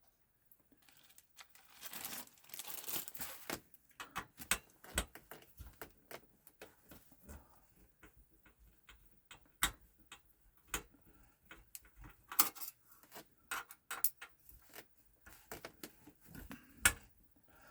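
Irregular clicks, taps and clinks of screws, a screwdriver and plastic and metal console parts being handled during a PS4 Pro teardown, with a scraping rustle about two seconds in.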